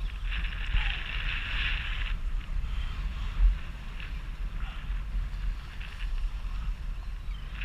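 Wind buffeting the microphone over water splashing and hissing against a jet ski's hull, with a single low thump about three and a half seconds in.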